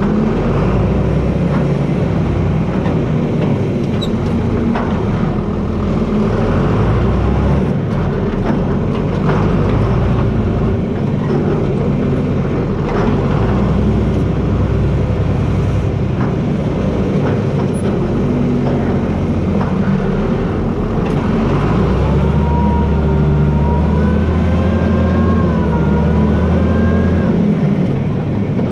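John Deere 4320 tractor's six-cylinder turbo diesel running steadily under load as it pushes with the blade. A higher whine joins in from about two-thirds of the way through, rising and wavering for a few seconds before it stops.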